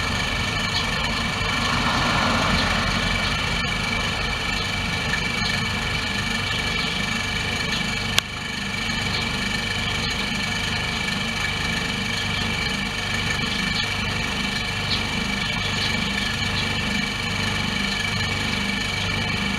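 Mazda Demio engine idling with a steady whine and rattle from the alternator, whose rotor shaft has play. A single sharp click sounds about eight seconds in.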